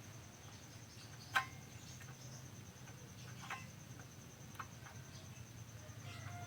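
A few faint, sharp clicks of multimeter probes and a small transistor being handled while its legs are tested, the loudest about a second and a half in. Under them run a steady high pulsing trill and a low hum.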